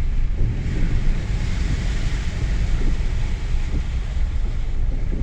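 Car cabin sound of a 3-litre V6 diesel Mercedes driving through flood water: a steady low rumble of engine and road under an even rushing hiss of water.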